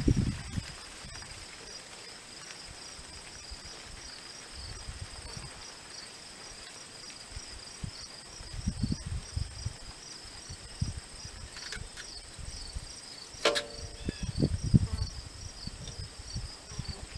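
Crickets chirping steadily in a continuous high pulsing trill. Over it come scattered low handling thumps and, about two-thirds of the way in, one sharp knock, the loudest sound.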